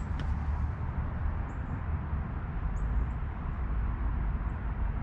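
Steady low outdoor rumble with a faint hiss, over which a few short, high bird chirps sound about every second.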